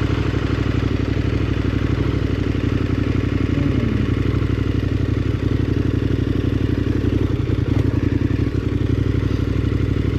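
KTM 1290 Super Adventure R's V-twin engine idling steadily.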